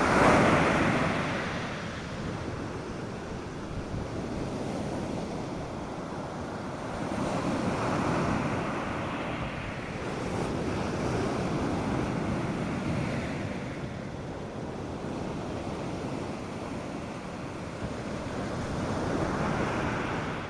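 North Sea surf breaking on a sandy beach: waves rush in and wash back in repeated surges a few seconds apart, the strongest about half a second in, with light wind on the microphone.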